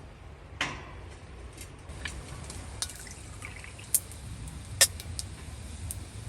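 A scatter of sharp clicks and knocks over a low steady rumble, the loudest two about four and five seconds in.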